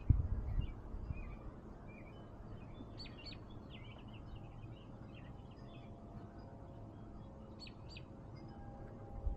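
Small birds chirping outdoors, with short repeated chirps throughout and a few sharper, higher calls about three seconds in and again near eight seconds, over a steady low background rumble. A few loud low thumps come right at the start.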